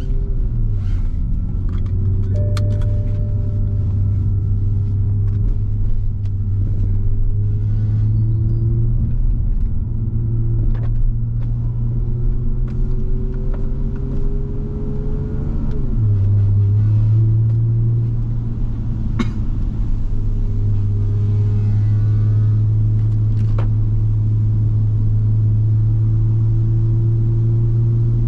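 Toyota Supra MK5's engine running at a steady drone under way, with road noise beneath it. About sixteen seconds in, the pitch drops suddenly, as in a gear change, then holds steady again.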